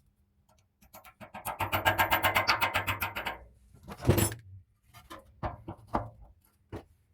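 Workshop handling sounds: a quick even run of ticks for about two seconds, then a sharp knock and a few lighter taps and clicks as parts and tools are worked by hand.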